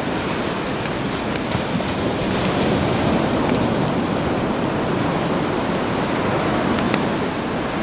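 Sea waves washing in steadily, swelling gently twice, with a campfire crackling over them in scattered sharp pops.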